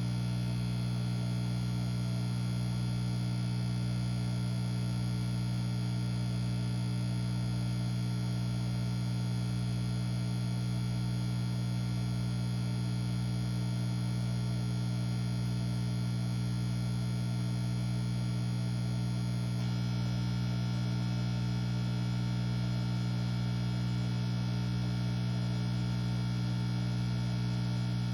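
Aquarium air pump (bubbler) running with a steady electric hum. A faint high hiss drops away about two-thirds of the way through.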